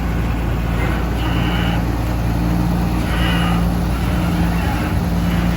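Diesel engine of a ten-wheel dump truck running steadily, with a low, even hum. Short high-pitched tones come and go over it several times.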